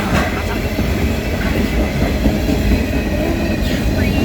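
Freight train rolling past at close range: steady rumble of the freight cars' wheels on the rails, with a few faint clicks of the wheels over rail joints.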